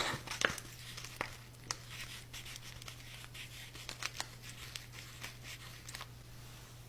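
Close-miked crackling and crinkling with scattered sharp clicks, over a steady low hum.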